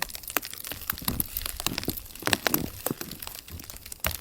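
A run of irregular sharp crackles and crinkles, several a second, with no steady sound beneath them.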